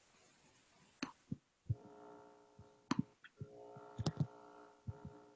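Scattered computer mouse and keyboard clicks while a video is being started, about eight sharp clicks, the loudest about one, three and four seconds in. A faint steady humming tone comes in twice, for about a second and then almost two seconds.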